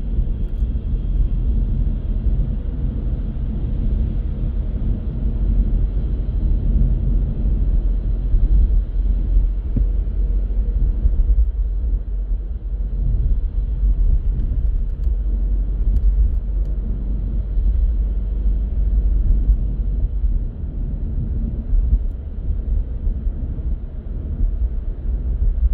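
Car driving in traffic: a steady low rumble of engine and tyre noise.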